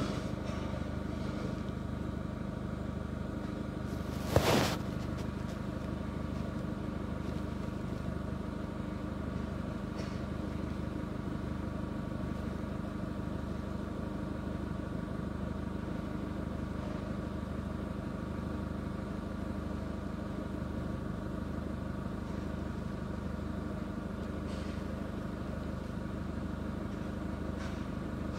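2009 Chevrolet Captiva diesel engine idling steadily, with a single sharp click about four and a half seconds in.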